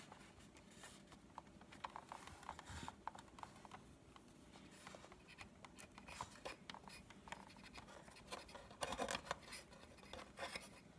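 Faint scratching and small clicks of a screwdriver and small screws being worked into the plastic housing of a Big Mouth Billy Bass's head motor, with a louder run of clicks about nine seconds in.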